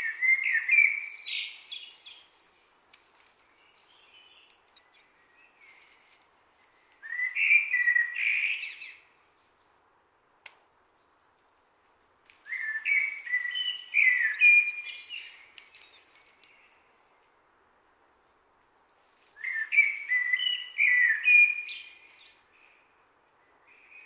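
A songbird singing four phrases of about two to three seconds each, several seconds apart. Each phrase is a quick series of chirping notes.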